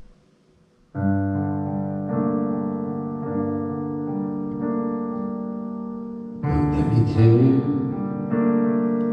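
Piano-sounding keyboard playing the intro of a song in sustained chords that change every second or so. About six and a half seconds in the music gets louder and brighter as more of the arrangement comes in.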